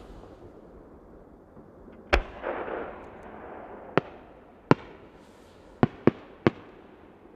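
Aerial fireworks shells bursting. One sharp bang about two seconds in is followed by a brief rushing, crackling noise, then five more sharp reports, three in quick succession near the end.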